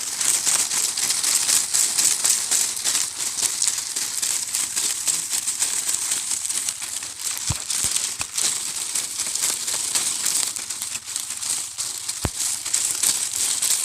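Continuous rustling and crackling of a leafy branch being handled and cut, with a few soft knocks about halfway through and near the end.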